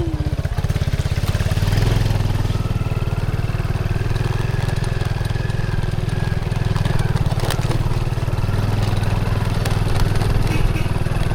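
Small motorcycle engine running steadily as it is ridden. Its note strengthens about two seconds in.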